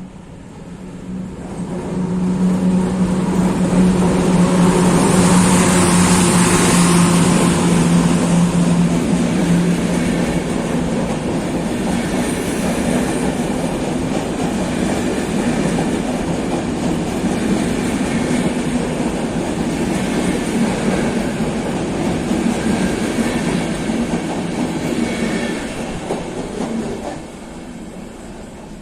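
EP09 electric locomotive hauling a EuroCity passenger train past at speed. It arrives about two seconds in with a steady low hum for several seconds as the locomotive goes by, then the coaches' wheels run over the rails for about twenty seconds before fading near the end.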